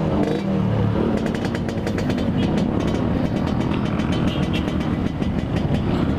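Yamaha RX-King's single-cylinder two-stroke engine running under way, its pitch rising and falling in the first second as the throttle changes, then a steady run with a rapid, irregular crackle.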